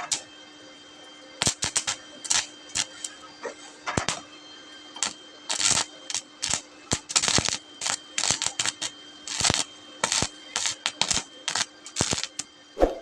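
Stick welding arc crackling in short, irregular bursts on thin sheet metal, the arc struck and broken again and again rather than run as one continuous bead.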